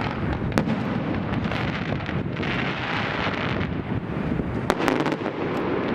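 Fireworks display going off: a steady run of booms and rumbling, with sharp cracks about half a second in and again near the end, and a spell of crackling midway.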